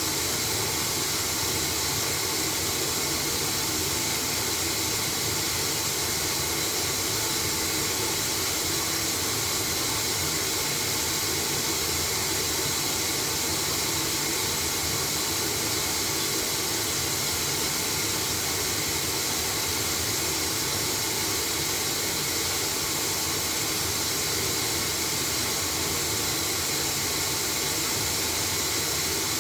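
LG washing machine running with a steady, even hiss.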